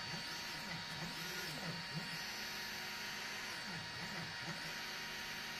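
EasyThreed K10 mini 3D printer printing: its stepper motors whine in repeated rising and falling pitch glides as the print head moves back and forth, over a steady hum.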